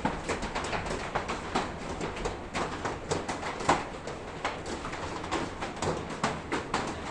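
Rain falling, with many drops striking close by as irregular sharp taps, several a second, over a steady hiss.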